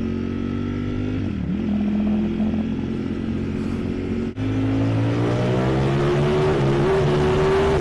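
Ducati Streetfighter V4S's 1103cc Desmosedici Stradale V4 engine under way, heard from the rider's helmet. It holds a steady note, cuts out for an instant just past four seconds in, then pulls hard with its note rising steadily as the bike accelerates.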